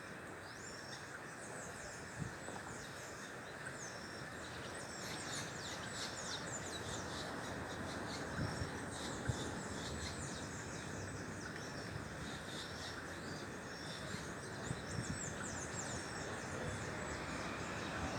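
Birds chirping: many short, high chirps, thickest in the middle, over a steady background hum.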